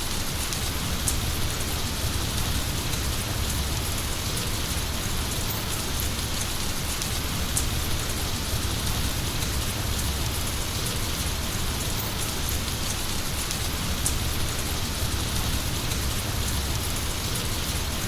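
Heavy rain falling steadily: a dense, even hiss with a deep rumble underneath and scattered sharp ticks of single drops.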